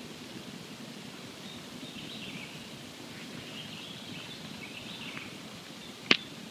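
Campfire burning with a steady low hiss, then a single sharp, loud crackling pop near the end. Faint high chirps come and go through the middle.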